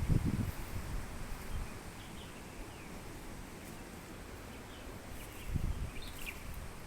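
Birds chirping in short scattered calls, over wind buffeting the microphone in low gusts at the start and again about five and a half seconds in.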